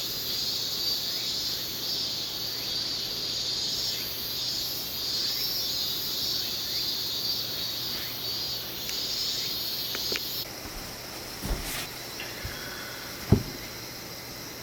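Insects singing in a steady high chorus that cuts off suddenly about ten seconds in. A couple of sharp knocks follow, the loudest a thud near the end, over a fainter insect chorus.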